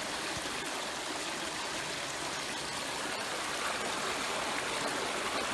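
Fast river current flowing steadily, an even wash of moving water.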